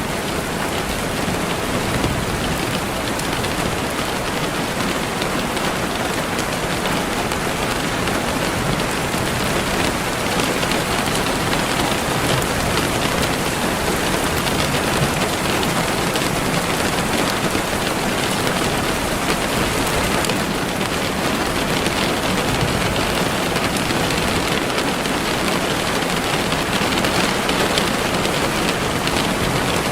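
Gentle rain falling steadily, an even hiss of drops with no breaks.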